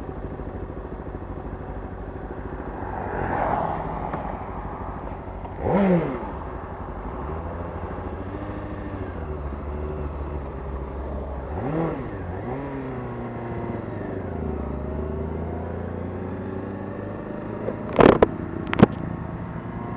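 Honda CBR600RR's inline-four engine running under way. The pitch climbs and drops twice, around six and twelve seconds in. A few sharp knocks come near the end.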